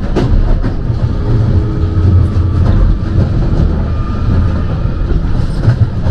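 London Underground Jubilee Line train (1996 stock) running between stations: a steady, loud rumble of wheels on the track, with a faint steady whine and scattered clicks.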